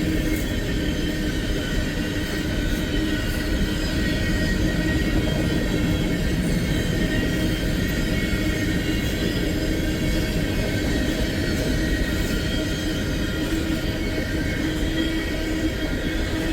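Freight train cars rolling steadily past, with a continuous rumble of wheels on rail and a thin, steady wheel squeal.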